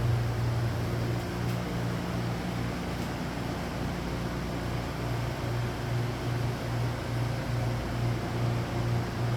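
A machine running with a steady low hum that throbs at an even, quick rate, over a broad hiss.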